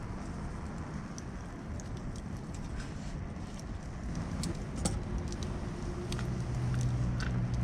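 A motorcycle engine running as a low, steady rumble, with a few light clicks and rattles about halfway through. A steadier hum builds about six seconds in and cuts off suddenly at the end.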